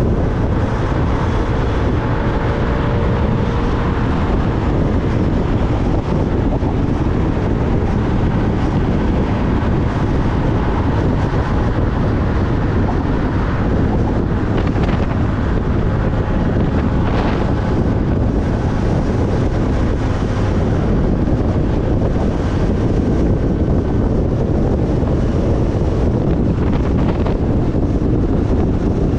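Wind rushing over a GoPro's microphone on a moving motorcycle, with the motorcycle's engine and road noise underneath. It is loud and steady.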